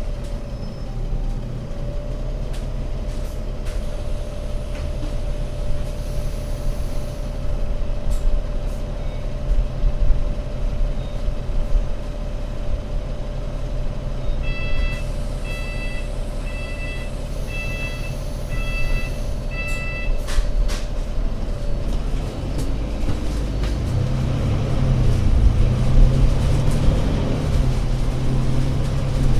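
ADL Enviro500 MMC Euro 6 double-decker bus's diesel engine running at low speed with a steady whine over it. About halfway through, an electronic beep sounds about seven times in a row. Near the end the engine revs up.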